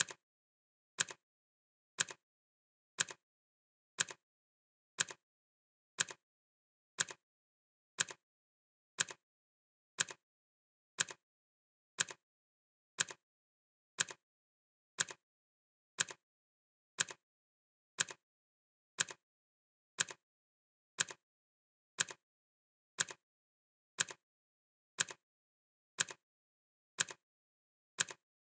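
Clock ticking, one sharp tick about every second at a steady, even pace.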